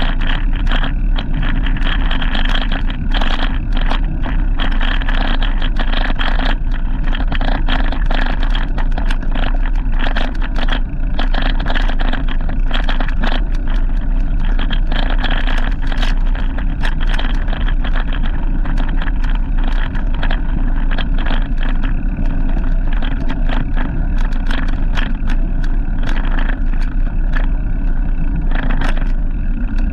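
Steady wind and road noise from a moving bike, with a heavy low rumble and frequent short clicks and rattles.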